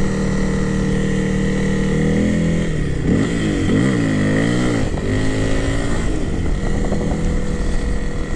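Honda CRF300L's single-cylinder four-stroke engine running while the bike is ridden. The pitch rises at the start and holds steady, then rises and falls several times around the middle as the throttle changes, before steadying again.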